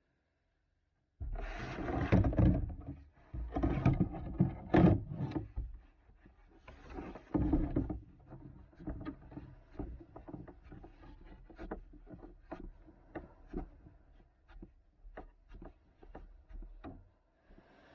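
Water rushing and washing around a sea kayak in three loud surges, followed by a string of irregular sharp knocks and clicks from the boat and paddle.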